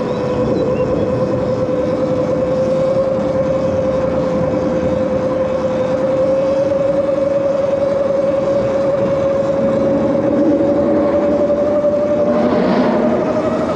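Electric bike motor whining while riding, its pitch climbing slowly as the bike gathers speed, over a steady rush of wind and road noise.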